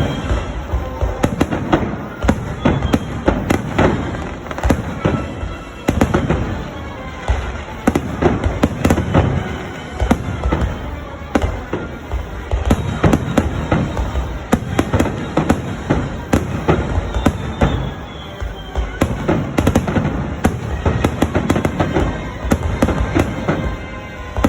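Fireworks display going off continuously, a rapid run of booms and crackling bursts with hardly a pause.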